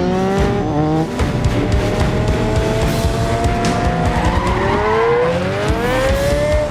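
Sports car engine revving hard, its pitch climbing and dropping with gear changes and a long rising rev near the end, with tyres squealing, over an action film score.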